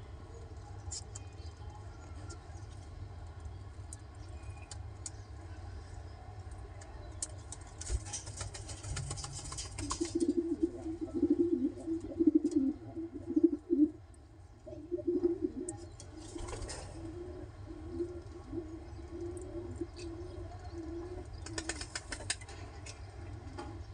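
Pigeons cooing in low, warbling phrases from about ten seconds in, on and off until near the end, with three bursts of wing flapping. A steady low hum runs underneath.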